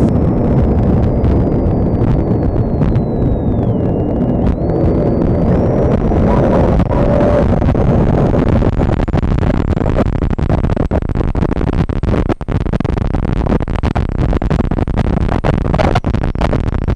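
Loud, steady low rumble of a moving vehicle, with scattered knocks and clicks, more of them in the second half.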